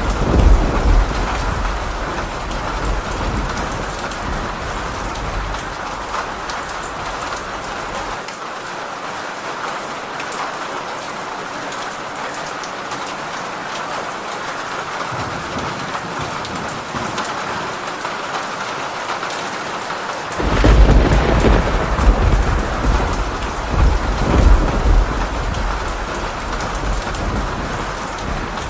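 Steady rain with thunder: a low rumble fades over the first few seconds, then about two-thirds of the way through a sudden thunderclap breaks and rolls on in several swells.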